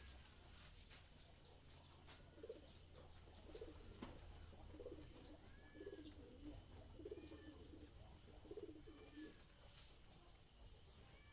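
A dove cooing faintly, a series of about six low coos roughly a second apart, with a few faint higher chirps from another small bird and a steady high-pitched whine behind.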